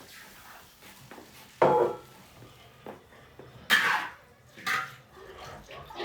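Metal spatula or ladle clanking and scraping against a cooking pot while it is being washed out, with three loud clanks: one about a second and a half in, one past the middle and one shortly after.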